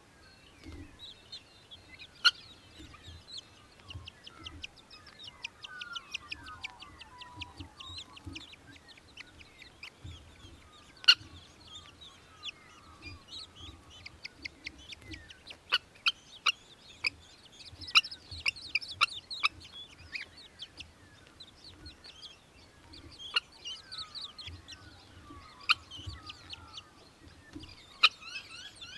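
Australian Hobby (little falcon) calling: rapid runs of short, high chattering notes and scattered single calls. A few sharp clicks stand out as the loudest sounds.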